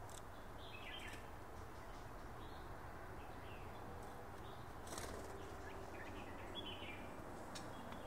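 Birds chirping a few times in short, faint calls over a steady background hiss, with one brief sharp sound about halfway through.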